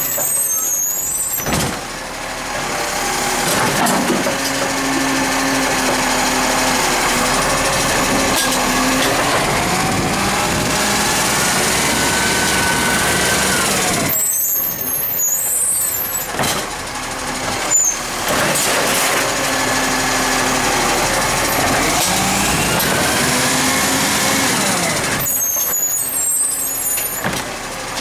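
A recycling garbage truck working, its diesel engine rising and falling in pitch as it revs, with air-brake hisses. The engine drops back and picks up again three times.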